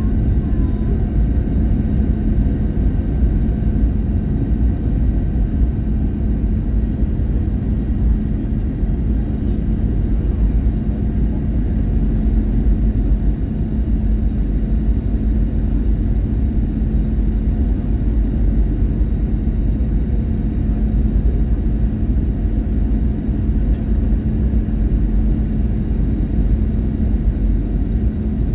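Steady cabin noise inside an Airbus A321-111 airliner: an even low rumble of its CFM56 engines and the airflow, with a constant hum underneath.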